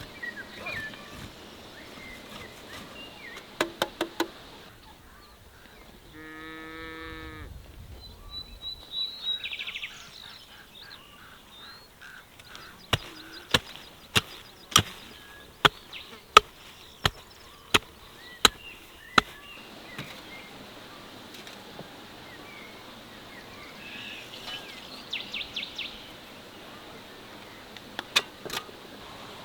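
Rural outdoor sounds: a single animal call lasting about a second and a half, then a run of about ten sharp knocks at a steady pace, with small bird chirps scattered through.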